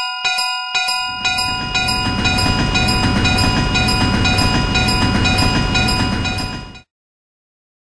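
Railroad crossing bell ringing in quick repeated strikes, joined about a second in by a passing train's loud, even rumble; both cut off suddenly near the end, leaving silence.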